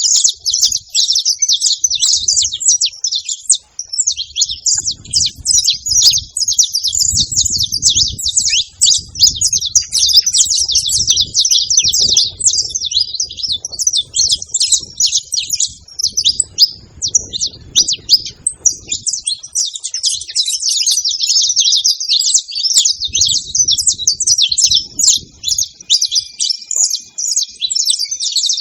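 Saffron finches chattering at a feeding spot: many quick, high chirps overlapping without a break. A low rumble comes and goes beneath them in places.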